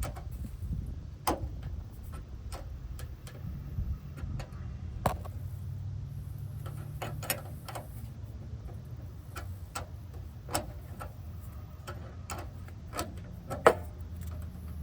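Scattered sharp metallic clicks and taps of a wrench working at a seized brake line fitting nut, irregularly spaced with the loudest near the end, over a steady low hum.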